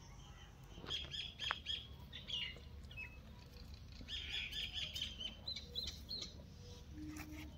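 Small birds chirping in quick series of short, high repeated notes, busiest in the first few seconds, with a few faint clicks.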